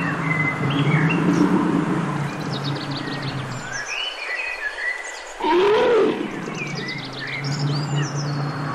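Brown bear growling low and steady, then a louder growl that rises and falls in pitch about five and a half seconds in, before the low growl resumes. Small birds chirp and trill throughout.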